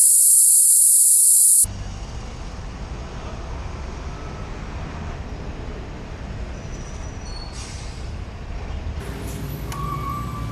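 A sharp burst of loud high hiss lasting under two seconds and cutting off suddenly, then a steady low vehicle rumble, like road and traffic noise.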